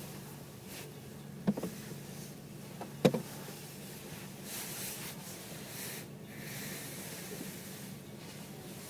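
Steady low rumble of a freight train rolling past, heard from inside a car, with two sharp knocks about one and a half and three seconds in and a few brief rustles later.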